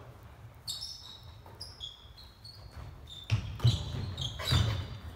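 Basketball game on an indoor court: sneakers squeak in short high chirps, and from a little past halfway a ball is dribbled, several bounces in quick succession.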